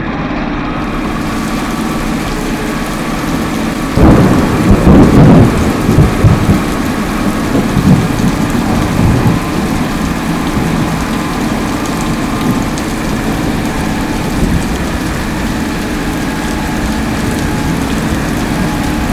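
Steady rain with a loud thunderclap about four seconds in, rumbling on and fading over the next several seconds.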